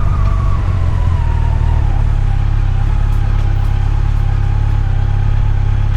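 A heavy engine running steadily with a deep rumble. Its whine falls in pitch over the first two seconds, then holds steady.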